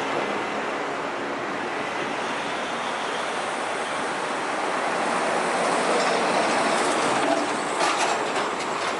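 Heavy trucks passing on a highway: a steady rush of tyre and engine noise that swells a little in the second half, with a few sharp rattles near the end.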